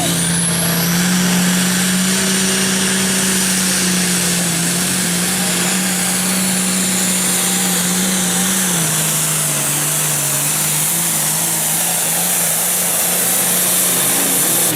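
Limited pro stock pulling tractor's diesel engine at full throttle under load during a pull, a steady loud engine note whose pitch steps down about nine seconds in as the sled bears down.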